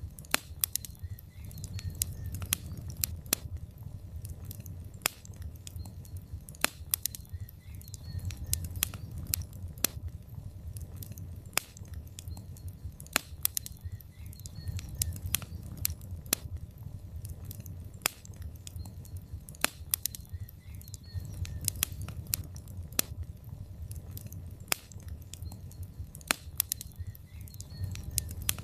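Log fire in a fireplace crackling, with frequent sharp, irregular pops over a low steady rumble of the flames.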